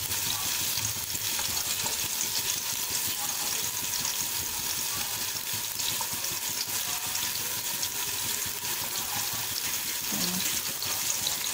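Chicken shami kabab patties sizzling in shallow oil in a nonstick kadai: a steady frying hiss with fine crackle.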